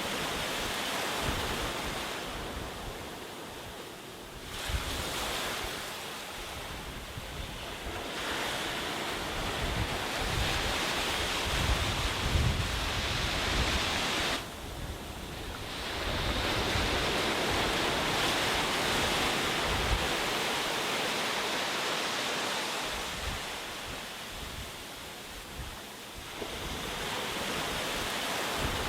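Sea waves breaking on a beach: a steady rush of surf that swells and ebbs as each wave comes in, with fresh surges about 5, 8, 16 and 26 seconds in.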